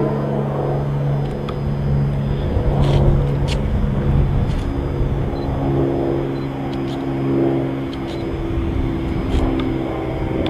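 Approaching train: a steady low rumble with a humming drone, its pitch shifting upward about four and a half seconds in, and scattered sharp clicks.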